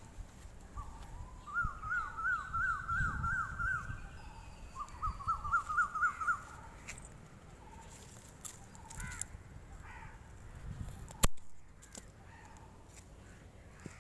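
A bird calling in two runs of quick, repeated pitched notes, about four a second, each run lasting about two seconds. Low rumbling runs underneath, and there is a single sharp click about eleven seconds in.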